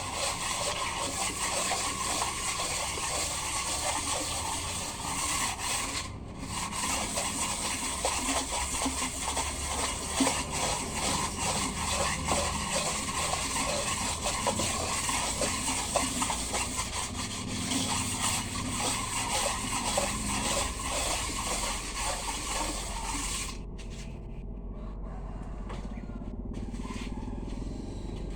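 Sandpaper rubbed back and forth by hand over a truck engine's cylinder head to resurface it: a continuous rasping scrape. It stops about 23 seconds in, leaving a low hum.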